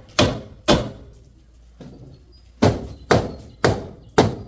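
Repeated heavy hammer blows, about two a second: two strikes at the start, a pause of about two seconds, then four more.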